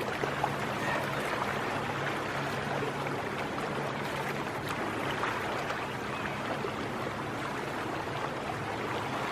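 Steady rush of moving water, the incoming tide washing along the shore, with a faint low hum underneath.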